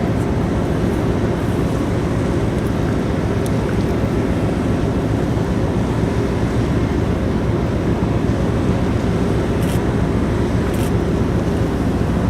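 Steady low rumble of the Orange 7 car ferry under way, with a faint steady hum and a couple of faint clicks late on.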